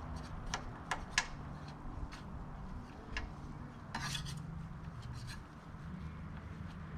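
Intermittent short scrapes and light metallic clicks of hand tools working on a paint-stripped truck door, with a longer scrape about four seconds in, over a low steady hum.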